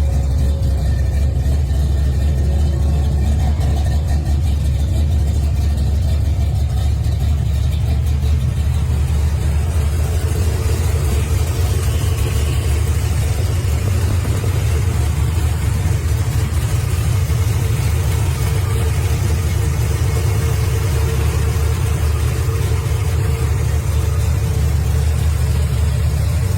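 A car engine running steadily with a deep, even rumble.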